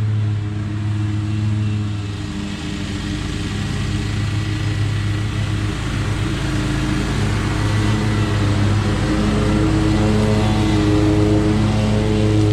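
Lawn mower engine running steadily while mowing, growing louder in the second half.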